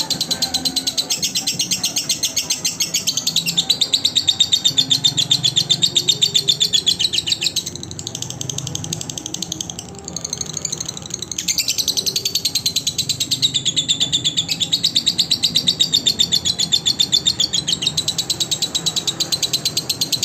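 Lovebird chattering in a long, rapid, fast-pulsing trill, dropping to a softer lull about eight seconds in and picking up strongly again around eleven seconds.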